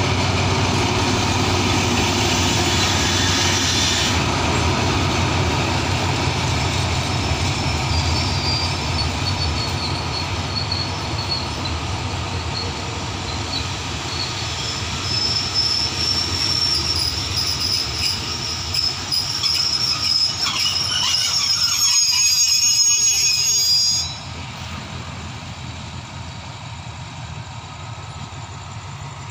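Diesel-hauled passenger train pulling into a station and slowing to a stop: a low rumble of the locomotive and coaches, with high-pitched wheel and brake squeal building up through the middle. Near the end the sound drops suddenly to a quieter steady engine idle.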